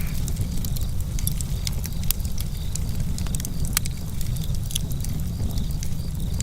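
Campfire crackling: burning wood gives irregular sharp pops and snaps, several a second, over a steady low rumble.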